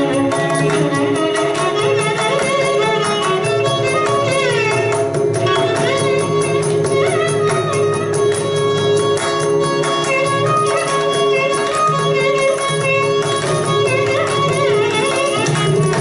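Carnatic music: a gliding melodic line with violin over rapid mridangam strokes and a steady drone.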